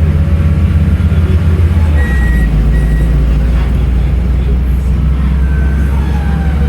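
Scania N310UA articulated city bus's diesel engine running steadily, its note changing about two seconds in. Two short high beeps sound around the same time.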